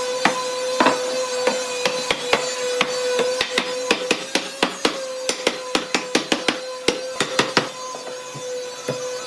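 Irregular series of sharp knocks of a tool striking wood, several a second, over a steady machine whine.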